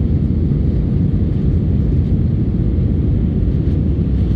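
Steady low rumble of an Airbus A319's engines and rushing air, heard from inside the cabin as the airliner climbs after takeoff.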